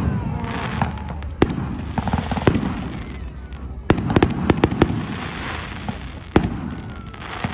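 Fireworks display: a string of sharp bangs with a quick cluster about four seconds in and another loud bang near the end, with crackling between them.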